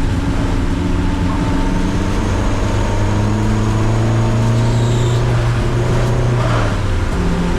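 Car engine accelerating under load on track, its pitch climbing steadily for several seconds, then dropping abruptly near the end. A constant hiss of wet-road spray and rain runs underneath.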